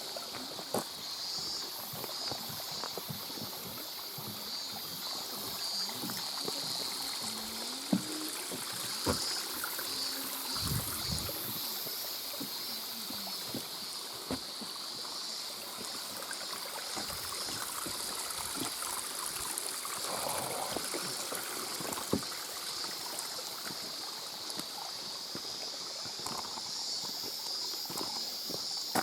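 Mountain stream water running steadily over rocks, with scattered sharp clicks and knocks through it.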